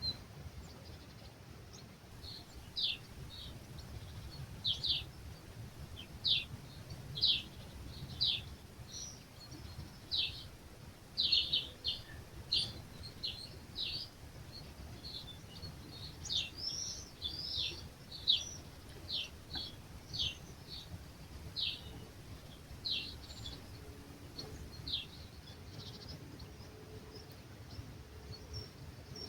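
A bird calling in a long series of short, high chirps, roughly one a second, starting about two seconds in and thinning out near the end, over a steady low rumble of breeze.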